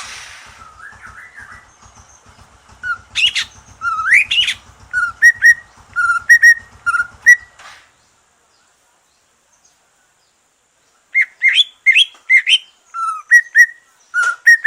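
Greater green leafbird (cucak ijo), just out of its molt, singing in runs of loud, quick whistled and chirping notes that slide up and down. It breaks off for about three seconds in the middle, then starts a second run.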